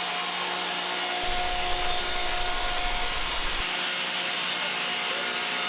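High-speed router milling grooves along the edges of LVL billets, running steadily: an even rushing noise with a steady whine in it.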